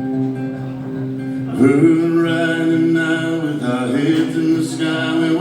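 Acoustic guitar strumming a song's intro in live performance, with a man's singing voice coming in about a second and a half in and holding long, bending notes over it.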